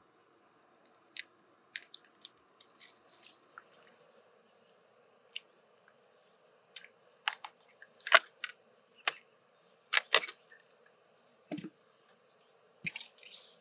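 Scattered sharp clicks and crunches of a freshwater mussel's shell being handled and opened, with the loudest cracks around the middle and a lower thud near the end.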